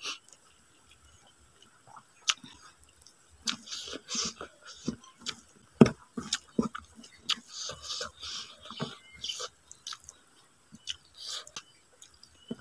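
Close-miked eating sounds of rice and vegetables eaten by hand: irregular wet chewing and lip smacks. A sharp click about six seconds in is the loudest moment.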